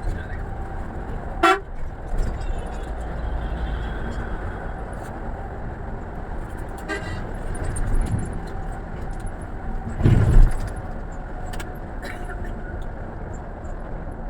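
Road vehicle running steadily, with a short horn toot about one and a half seconds in, a fainter toot around seven seconds, and a loud low rumble swelling briefly about ten seconds in.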